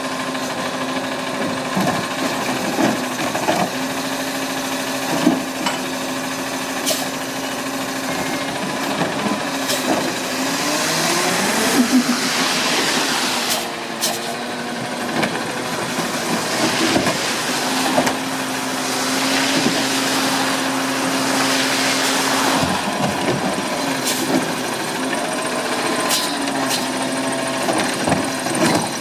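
Garbage truck running, with a steady engine hum throughout. In the middle stretch the pitch glides up and down and a hiss swells, as when the truck's hydraulics are working. Scattered knocks and clanks are heard.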